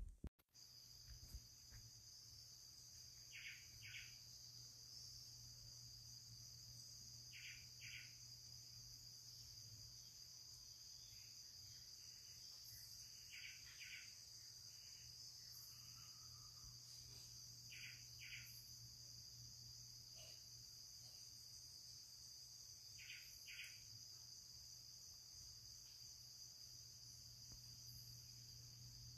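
Faint Amazon rainforest dawn chorus: a steady high-pitched insect drone, with a bird repeating a quick two-note call about every four to five seconds and a few softer calls between.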